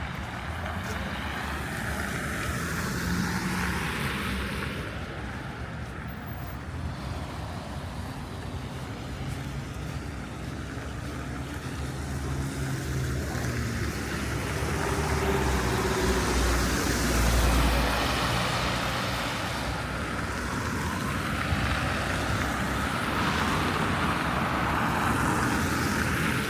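Road traffic on a snow-covered city street: a steady hum of cars, with several passing close by, each swelling and fading as it goes past.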